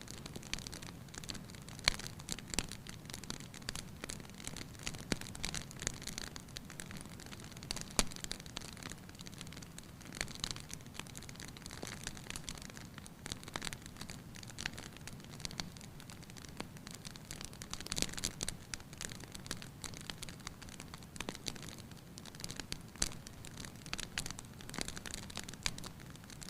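Wood fire crackling in a fireplace: a steady low rush with frequent irregular sharp pops and snaps.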